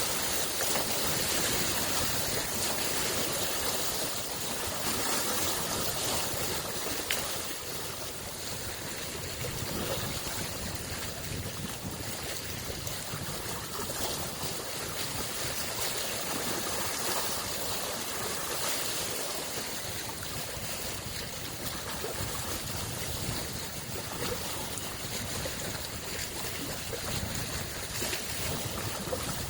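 Lake waves washing, a steady rushing hiss that swells and eases gently.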